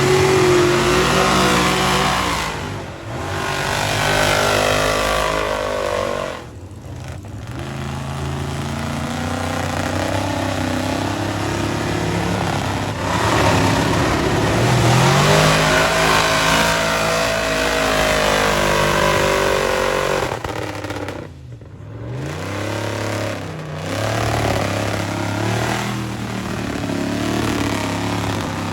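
Mud-racing vehicle's engine revving hard and falling back again and again, with a few brief drops. It is running badly, not the way it usually runs.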